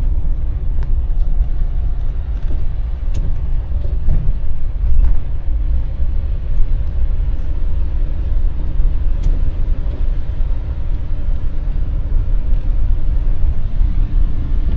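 Van driving on a winding road, heard from inside the cab: a steady low engine and road rumble with a few faint ticks and rattles.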